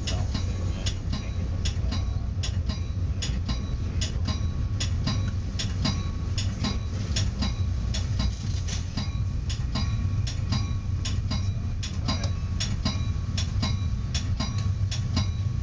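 Metra commuter train's cab car running on the rails: a steady low rumble, with a quick run of sharp metallic ticks, about three a second, each leaving a brief ringing tone.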